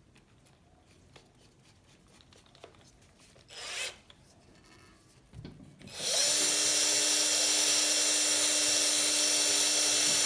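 A small high-speed power tool, such as a rotary tool or drill, starts up about six seconds in and runs at a steady pitch with a strong high hiss, used to take paint off a steel bicycle frame. Before it starts there are only faint handling sounds and one brief scrape.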